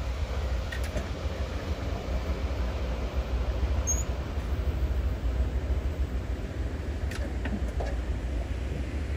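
Mixed freight cars of a long CSX manifest train rolling past on the rails: a steady low rumble with a few faint clicks.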